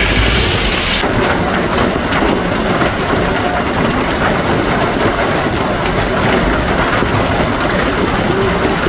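Hail pelting down: a dense, steady clatter of countless small impacts on surfaces.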